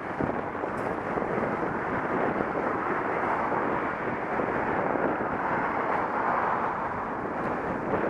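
Wind rushing over an action camera's microphone while cycling: a steady, even rushing noise.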